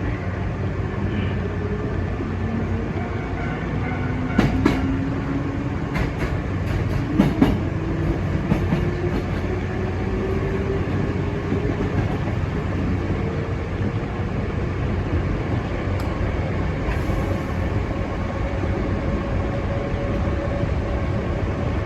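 Hankyu Imazu Line electric train running, heard from on board: a steady rumble with a motor whine that slowly rises in pitch as the train gathers speed. About four to nine seconds in comes a cluster of sharp clicks from the wheels over rail joints.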